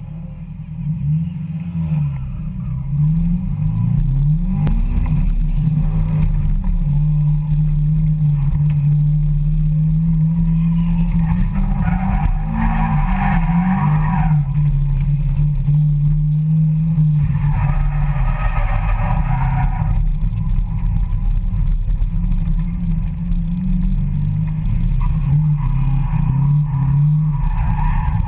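Car engine heard from inside the cabin while the car is driven in drifts, its revs rising and falling repeatedly, with two stretches of tyres screeching, about 12 and 18 seconds in.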